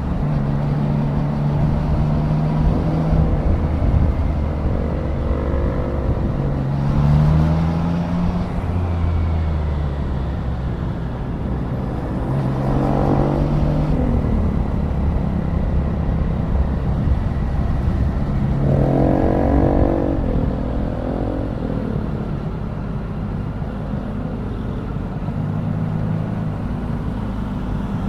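Triumph Daytona 660's inline three-cylinder engine running on the road, its pitch rising several times as the throttle opens, over a steady rush of wind and road noise.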